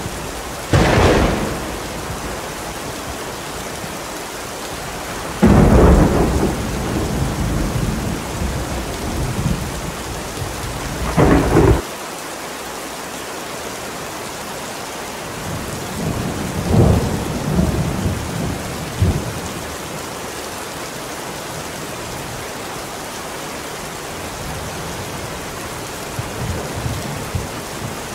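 Thunderstorm recording, mixed as 8D audio: steady rain throughout, with repeated thunder over it. A sharp clap comes about a second in. A long, low rumble starts around five seconds in and cuts off abruptly near twelve seconds. More rumbles roll in around sixteen to nineteen seconds, and fainter ones come near the end.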